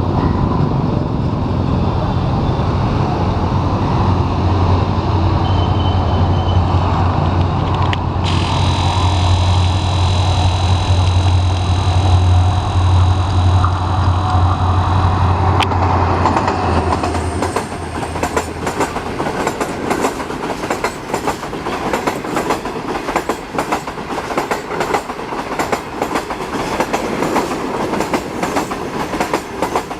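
Pakistan Railways HGMU-30 diesel locomotive passing close by, its engine a loud low drone for the first half, with a steady high tone for several seconds in the middle. After that the passing coaches clatter rhythmically over the rail joints.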